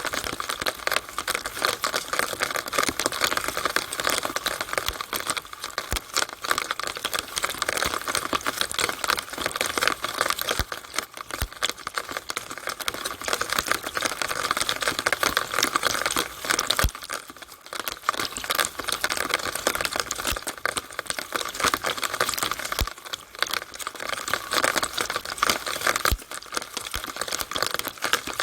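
Rainwater running down a downspout and splashing, a dense, irregular crackling patter that goes on throughout, with a few soft low knocks and a brief lull about 17 seconds in.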